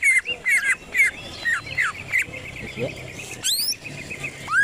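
Green leafbird (cucak ijo) singing a fast, varied song of quick sweeping chirps and whistles. A rapid chattering trill comes midway, a quick rising note about three and a half seconds in, and arching whistled notes near the end.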